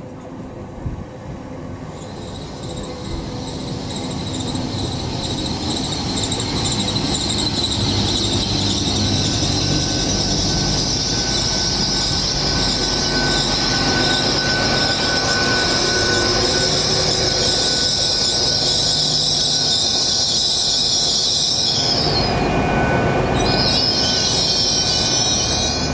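Great Western Railway Hitachi bi-mode intercity train drawing in along the platform, growing louder over the first several seconds, with a loud high-pitched wheel or brake squeal as it slows. The squeal stops about 22 seconds in and comes back briefly near the end.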